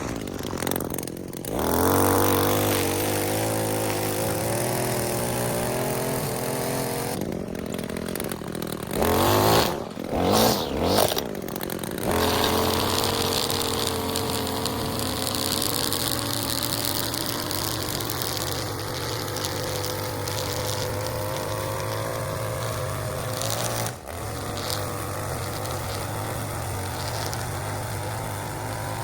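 Gasoline push lawn mower engine running steadily while mowing, with a few louder, uneven surges about ten seconds in.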